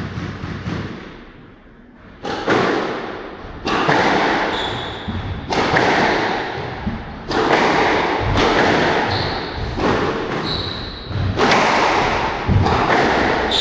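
Squash rally: the ball cracking off rackets and the court walls about once a second, each hit ringing on in the hall, with short high shoe squeaks on the court floor between shots. The rally starts about two seconds in after a fading wash of noise.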